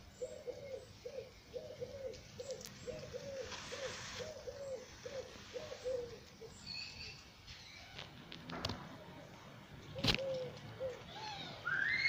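A bird cooing: a rapid string of short, low notes, two to three a second, that stops about six and a half seconds in and comes back with two notes near the end. A small bird chirps in between, and there are a couple of sharp knocks.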